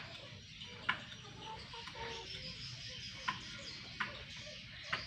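Four sharp knocks at irregular intervals, hammer blows on the wood of a boat under construction, with a few short animal calls between them.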